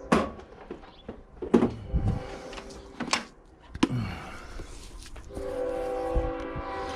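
Several sharp knocks and clatter of tools and parts being handled on a workbench. From about five seconds in, a steady drone of several pitches at once joins them.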